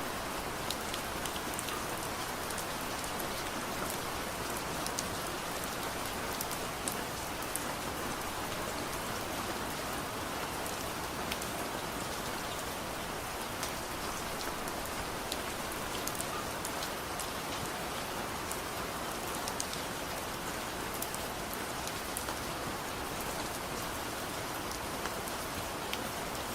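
Steady soft rain falling, an even hiss with many small, scattered ticks of individual drops or crackles.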